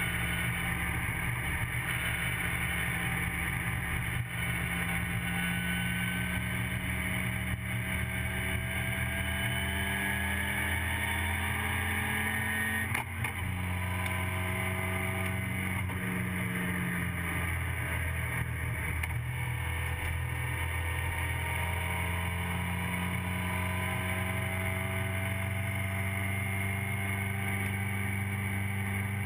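TVR Vixen race car's Ford Kent Crossflow four-cylinder engine running hard at racing speed, heard from inside the cockpit. The revs climb and fall as the car goes through the lap, with a brief sharp knock about halfway through.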